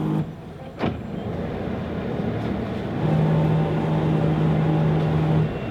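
A motor running steadily over a rushing noise, with a steady hum that drops out just after the start and returns for a couple of seconds in the second half. There is a sharp click about a second in.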